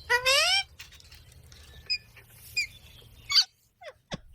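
A parrot calling: one loud half-second call right at the start, then a few short chirps and quick falling squeaks.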